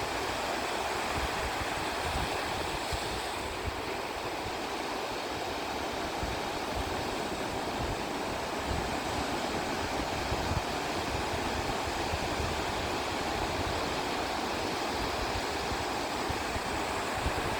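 Sea waves washing steadily onto a beach, an even hiss of surf with no distinct breaks, over a low, gusty rumble of wind on the microphone.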